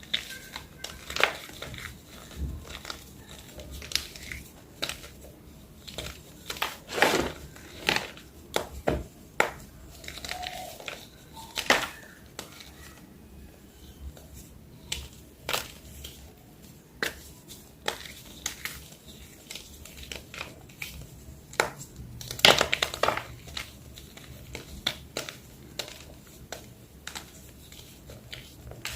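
Plain white gym chalk crunching: irregular sharp crunches about a second apart, with louder, denser bursts of crunching about seven seconds in and again a little past twenty-two seconds.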